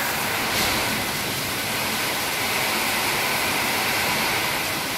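Heavy rain pouring steadily onto trees and foliage: a dense, even hiss.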